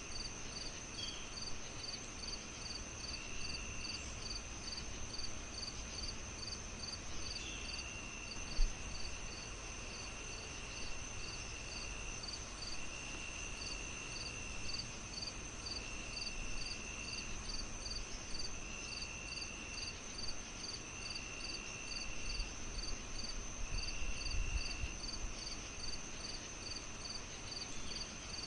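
Night insect chorus: crickets chirping steadily at about four chirps a second over a constant high insect buzz, with a second insect trilling in spells of about a second. Underneath, a fireplace crackles faintly, with one sharp pop a little past a quarter of the way in.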